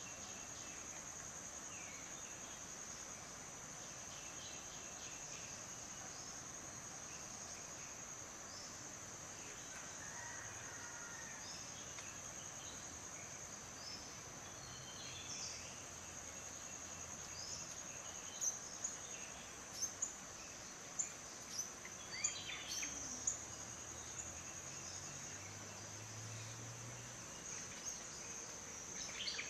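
Steady high-pitched drone of crickets throughout, with a run of short, sharp, high bird chirps in the second half.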